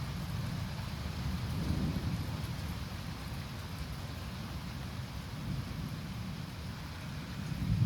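Thunderstorm: a steady low thunder rumble under the hiss of falling rain, swelling slightly about two seconds in and building into a louder roll of thunder at the very end.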